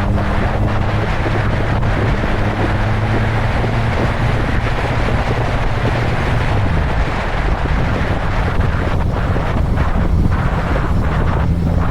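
Wind rushing over the microphone of a moving motorcycle, with the engine humming steadily underneath. The engine note drops and picks up again about halfway through.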